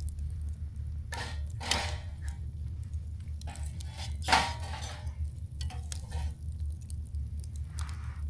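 Campfire burning, with scattered sharp crackles over a steady low rumble. A few short, louder rustling or clattering noises come through, the loudest about four seconds in.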